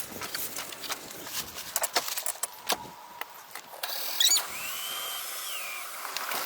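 Workshop tools at work: a run of sharp clicks and knocks, then a short squeal about four seconds in. A steady whir follows, with a tone that rises, holds and falls.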